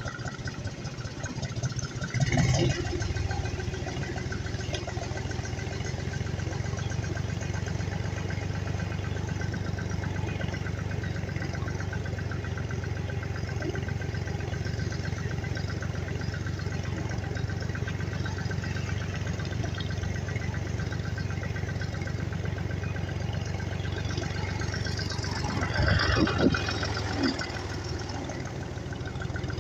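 Tractor engine running steadily with a fast, even firing pulse. It gets sharply louder about two seconds in, and there is a louder burst with some clatter near the end.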